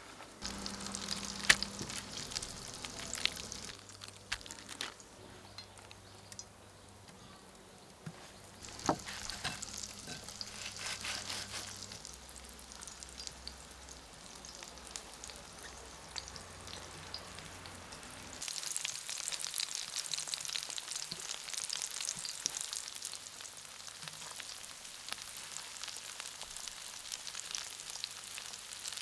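Food sizzling and crackling in a frying pan, with scattered clicks of a utensil stirring it.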